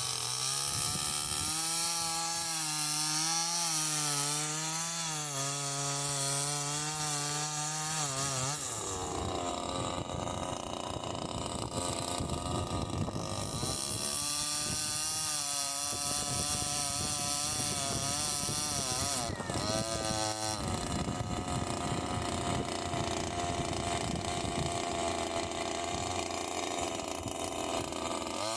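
Two-stroke chainsaw cutting wood. It runs steadily at high revs in some stretches and goes rougher and noisier under load while the chain bites into the log.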